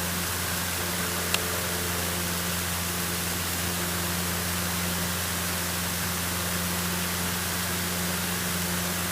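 Cessna 152 cabin noise in the climb: the four-cylinder engine and propeller give a steady drone under a constant rush of airflow hiss. A single short click about 1.4 s in.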